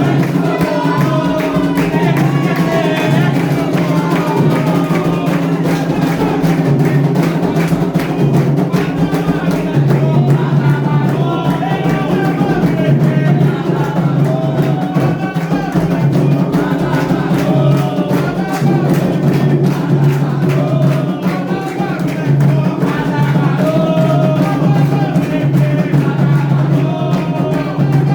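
Candomblé ritual music for Ayrá: atabaque hand drums beating a rhythm under voices singing.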